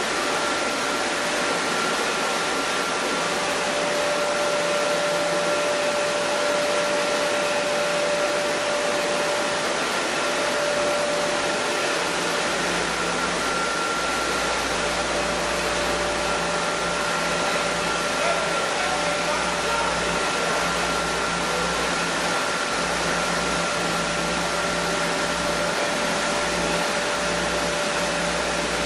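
Chili powder milling machinery running steadily: a constant rushing of air and grinding with a steady whine, and a low rumble joining about twelve seconds in.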